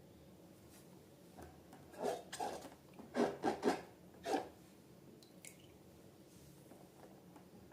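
Slime squelching: a cluster of about six short, wet squishes between about two and four and a half seconds in.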